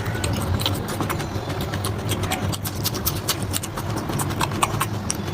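Close-miked chewing and mouth sounds of someone eating curry and rice: a quick, irregular run of wet smacks and clicks over a steady low hum.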